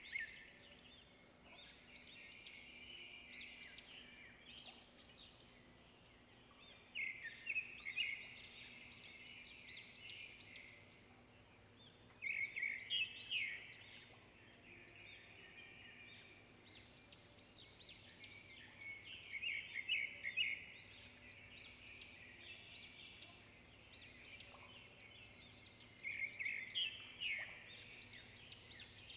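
Birds chirping faintly, in bursts of quick high chirps that come back every six or seven seconds.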